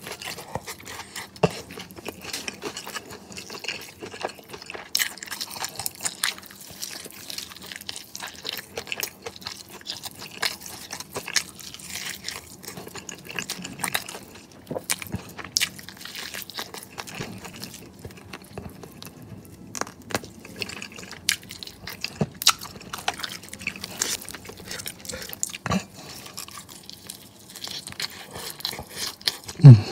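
Close-miked chewing of crispy fried chicken wings coated in Samyang hot sauce: irregular crunches mixed with wet, sticky mouth clicks and smacks. One louder knock near the end.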